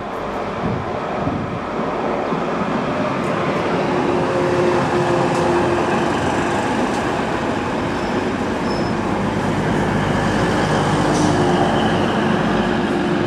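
TransPennine Express Class 185 diesel multiple unit running past close by along the platform: a steady rumble of wheels on rail and underfloor diesel engines with a humming tone, growing a little louder as it passes.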